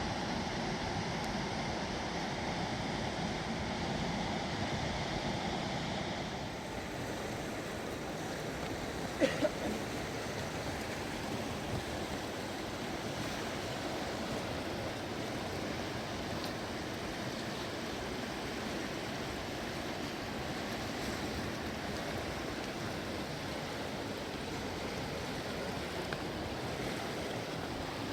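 Steady rushing of a fast-flowing river, with a single short sharp knock about nine seconds in.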